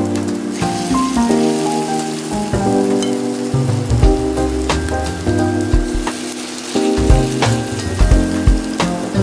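Tuna and vegetable pancake batter sizzling in hot oil in a frying pan, under background music with soft chords and a bass line.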